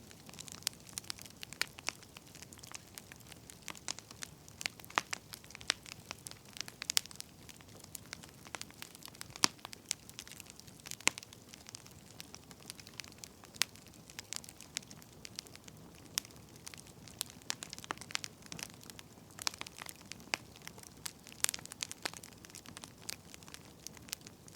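Firewood burning with irregular sharp crackles and pops of varying loudness over a soft steady hiss.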